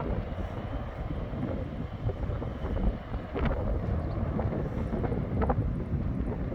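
Four-engined Airbus A380 jet airliner rumbling steadily, with wind buffeting the microphone. Two short knocks, one about halfway through and one later.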